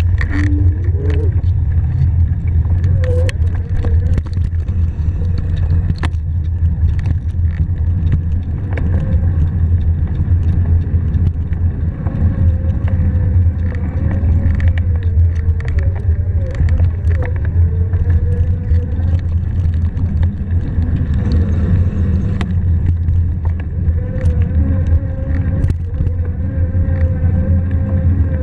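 Fat-tire electric bike being ridden: a steady low rumble of wind on the microphone and tires rolling, with a faint whine that rises and falls and occasional sharp clicks from bumps.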